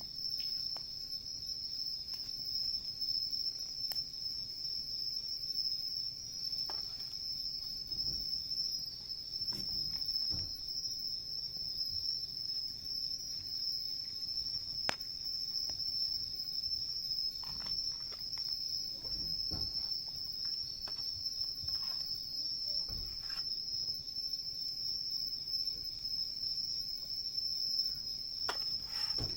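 Crickets calling in a steady, unbroken high-pitched chorus, with scattered faint crackles and pops from a wood campfire.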